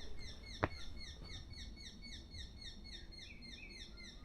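Bird calling: a fast, even series of short, high, falling notes, about four a second. There is one sharp click about half a second in, over a low steady rumble.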